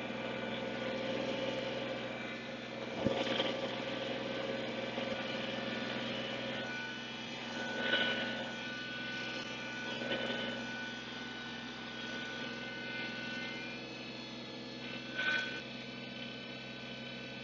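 An engine running steadily at idle, with a few brief louder swells about 3, 8, 10 and 15 seconds in.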